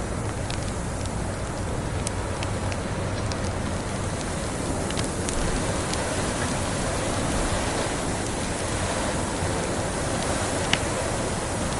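Steady rushing noise of blizzard wind with a low rumble, and a wood fire crackling over it in sparse sharp pops, one louder pop near the end.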